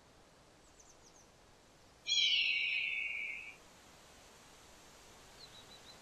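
A bird's single loud, harsh cry about two seconds in, falling in pitch over about a second and a half, with faint high chirps before and after it.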